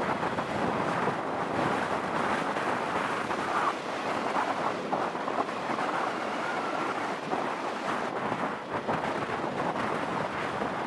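Steady rush of wind buffeting the microphone of a moving motorcycle, mixed with engine and road noise.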